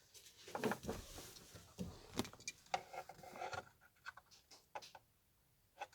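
Handling noises of work on the truck's wiring and dash parts: a scattered run of light clicks, taps and rustles, going quiet briefly near the end before more clicks.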